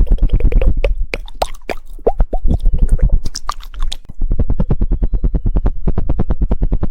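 ASMR mouth sounds: rapid 'woodpecker' tongue clicking close to the microphone, a fast run of clicks. Between about one and four seconds in it thins to scattered wet clicks and pops, then the fast clicking resumes.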